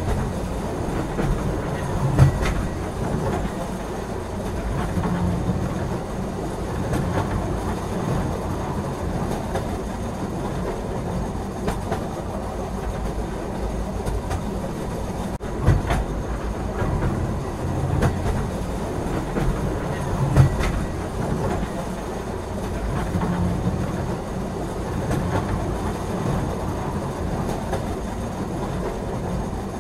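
Express passenger train running at speed, heard from inside a coach: a steady rumble of steel wheels on the rails, with a few sharp knocks from the wheels on the track.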